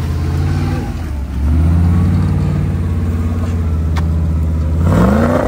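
Off-road Jeep's engine pulling under load as it drives up a snowy trail, getting louder about a second and a half in, then revving up with a rising pitch near the end. A single sharp click comes about four seconds in.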